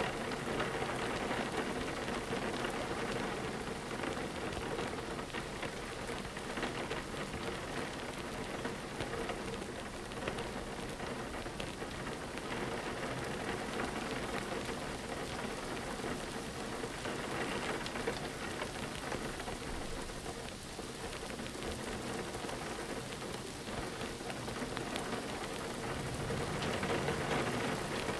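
Steady rain pattering on a window pane, a dense spray of fine drop ticks that grows a little louder near the end.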